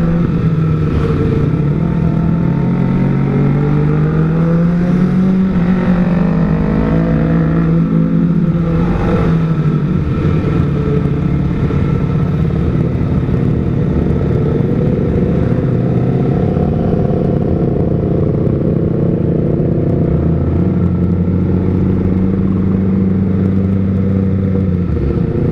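Kawasaki ZX-25R inline-four with an R9 Zeta aftermarket exhaust running at low revs in slow stop-and-go traffic. The engine note rises and falls gently in the first ten seconds, then holds steady.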